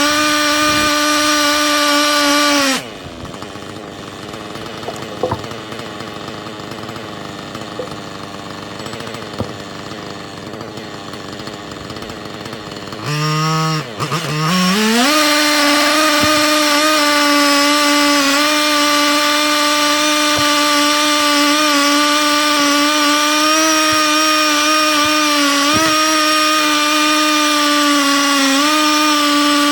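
Husqvarna 3120XP chainsaw on a chainsaw mill, running at steady high speed through an oak log. A few seconds in, its sound drops away to a quieter stretch. About 13 seconds in it returns at a low idle, revs up, and runs steadily at high speed again for the rest.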